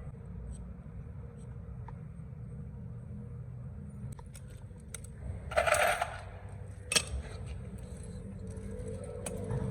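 Metal parts and tools clinking and scraping during a tractor hydraulic lift cylinder rebuild, with scattered light clicks, a louder clattering burst a little past halfway and a sharp click soon after, over a steady low hum.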